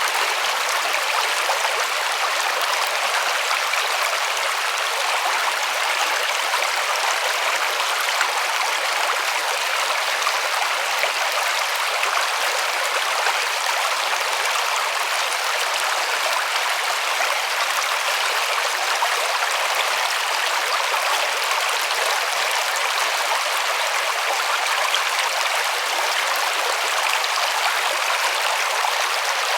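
A river running over rocks: a steady, even rushing of water with no change.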